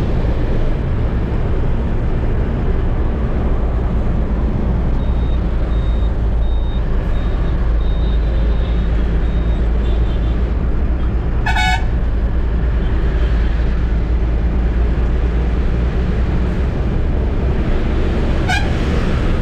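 Eicher truck's diesel engine running steadily while driving, a constant low rumble, with two short horn honks, one just before the middle and one near the end. A faint series of high beeps sounds for a few seconds near the start.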